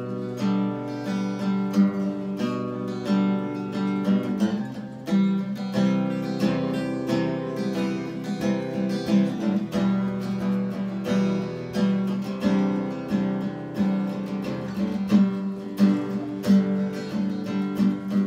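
Acoustic guitar playing a picked and strummed chord introduction, with steady rhythmic note attacks.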